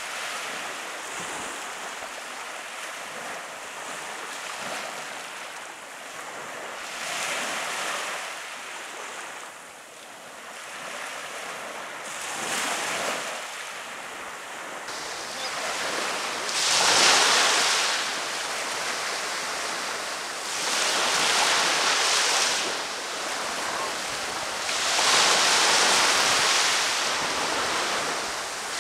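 Ocean waves breaking and washing up a beach, a surge every four to five seconds, growing louder about halfway through.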